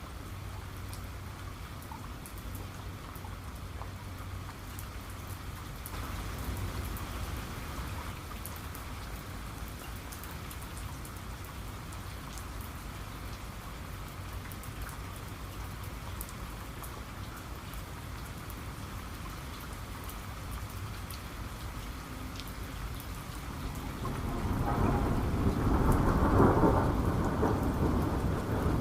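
Steady rain falling, with scattered light drop taps. About twenty-four seconds in, a low rumble of thunder builds and becomes the loudest sound, still rolling at the end.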